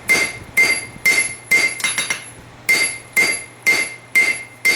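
Hand hammer striking hot rasp steel on an anvil, about two blows a second with a short pause near the middle, each blow ringing clear and high: drawing out the tang of a forged rasp knife.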